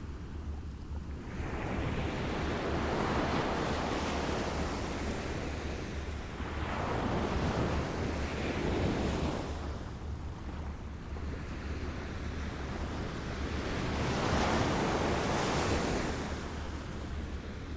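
Waves lapping, washing in and out in three slow swells of surf noise over a steady low rumble.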